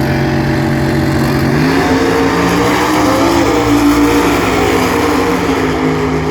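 Vintage muscle-car drag racers' engines running hard on the strip, a loud sustained engine note that steps up in pitch about two seconds in and then holds.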